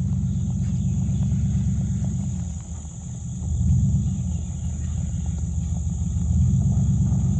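Truck engine running with its exhaust cut off, a low pulsing rumble. It drops away briefly about two and a half seconds in, then comes back louder.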